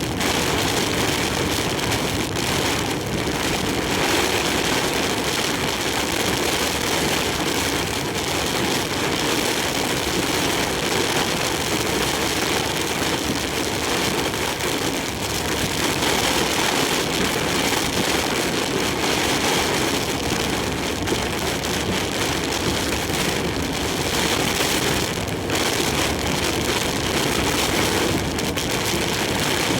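Heavy typhoon rain and strong wind beating on a large truck as it drives, with the truck's engine and road noise steady underneath.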